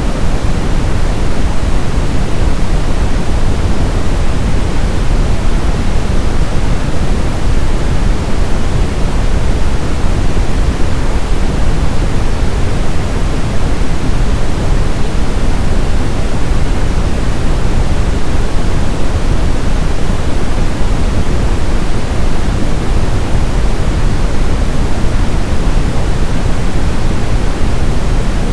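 Steady, loud brown noise: an even hiss-like rumble weighted toward the low end.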